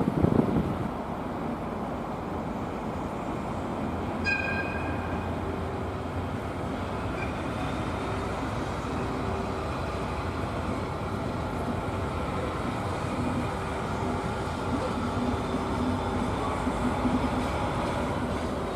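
DE11 diesel shunting locomotive running steadily as it moves a passenger coach, with a continuous rumble and a steady low engine note. A short high-pitched tone sounds once, about four seconds in.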